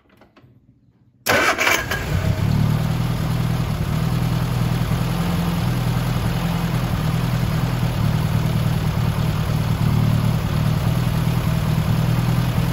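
1971 MG Midget's four-cylinder engine firing up about a second in on a newly fitted replacement distributor, catching at once and then running steadily at idle.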